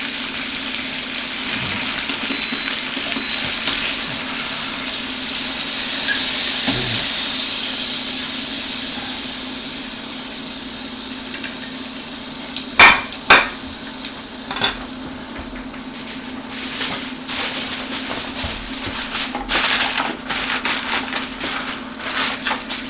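Chicken sizzling in a hot frying pan, the hiss swelling and then fading. From about halfway on come sharp clicks and clatters of utensils against the pan and plate as the cooked chicken is lifted out, over a steady low hum.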